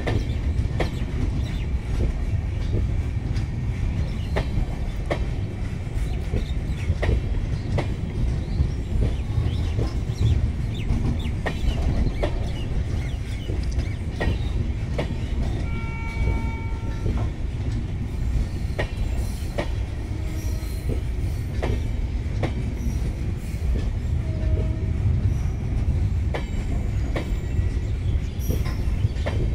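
Rake of LHB high-capacity parcel vans rolling past at close range: a steady low rumble of wheels on rail with sharp clacks every second or so. A brief high tone sounds about halfway through.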